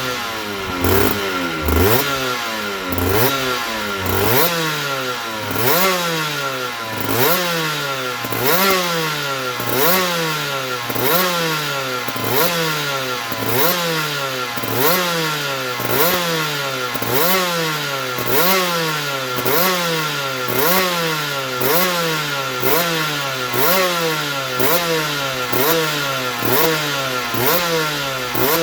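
2008 Aprilia RS125's single-cylinder two-stroke engine being revved over and over, the throttle blipped about once every second and a half, each rev climbing quickly and falling back slowly. A steady high tone runs underneath.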